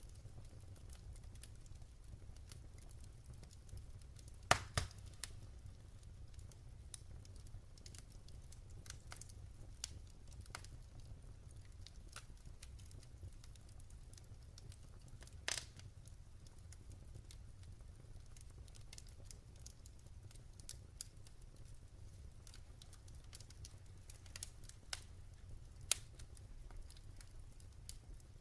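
Wood fire crackling in a fireplace: a steady low rumble under irregular small ticks and pops, with a few sharper snaps, the loudest about four and a half seconds in, then another near the middle and one near the end.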